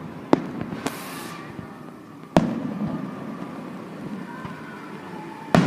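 Aerial fireworks bursting overhead: four sharp bangs spread over a few seconds, the second followed by a brief crackling hiss.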